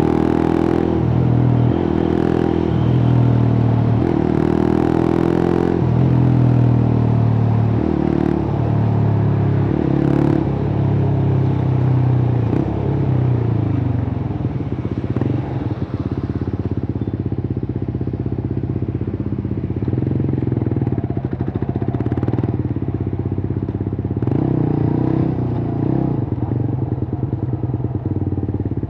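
Suzuki GSX-R150's single-cylinder engine running through a cut-open exhaust while the bike is ridden. The revs climb and drop again and again over the first half, then settle lower and steadier, with a short rise in revs near the end.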